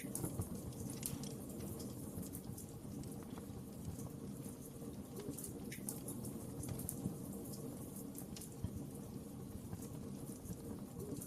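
Wood fire crackling in a fireplace: many small irregular pops and snaps over a steady low rumble of flames.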